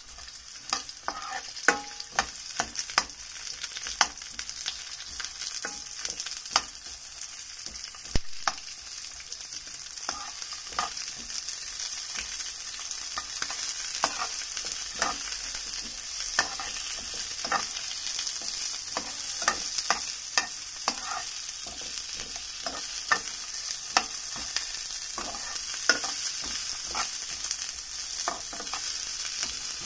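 Onion, garlic, ginger and red chili frying in oil in a nonstick pan: a steady sizzle, with frequent sharp clicks and scrapes of the spatula against the pan as they are stirred.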